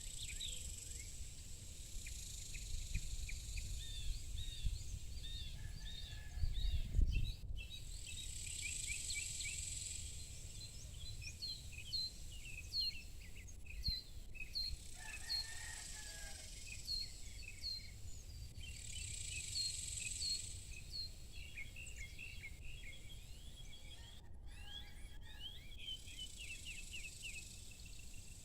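Evening chorus of many small birds chirping over a high insect drone that swells up and fades twice, with a steady low rumble underneath and a brief louder rumble about seven seconds in.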